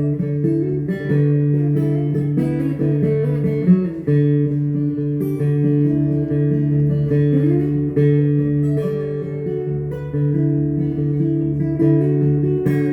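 Acoustic guitar playing an instrumental break, strumming steady chords.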